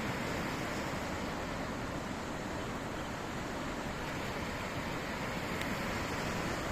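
Steady noise of sea surf and wind, without distinct wave breaks.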